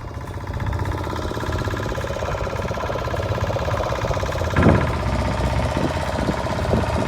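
Motorboat engine running steadily, a fast, even chugging pulse, with a brief louder gust or splash about four and a half seconds in.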